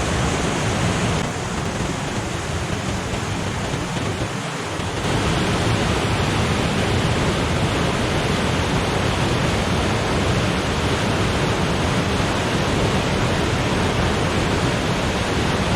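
Steady rush of water running down a rocky gorge, the remaining flow after a flash flood, getting a little louder about five seconds in.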